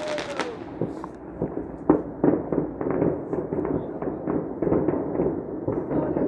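Fireworks going off: an irregular, rapid run of sharp bangs and pops over steady crackling, the loudest bangs about two seconds in.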